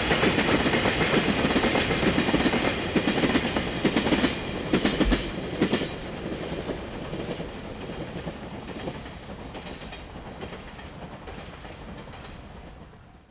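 Freight train of Taki 1100 tank wagons rolling past, wheels clattering over the rail joints. The last wagon passes about five seconds in and the clatter fades steadily as the train moves away.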